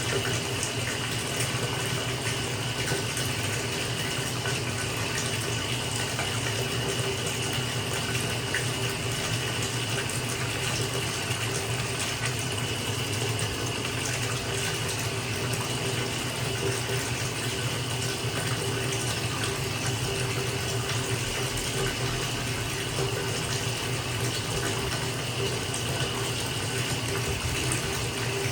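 Tap running steadily into a bathtub as it fills, an unbroken rush of water with a faint steady hum underneath.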